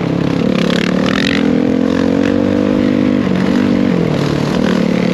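Dirt bike engine running, its pitch rising a little, then dropping in two steps about three and four seconds in.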